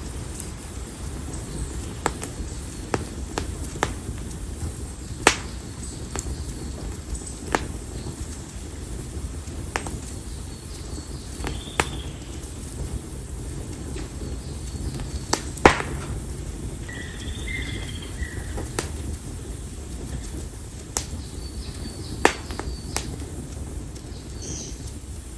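Split konara oak firewood burning in an open fire, snapping and popping with sharp crackles every second or two over a steady low rumble of flame.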